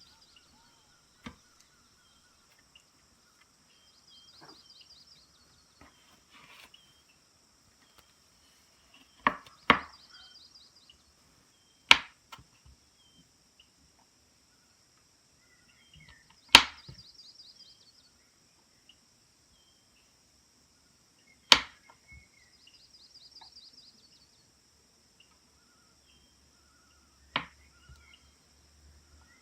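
Sharp single knocks on a wooden surface, about seven of them at irregular intervals, one a quick double knock, over a steady high insect drone with short trills and a few bird chirps.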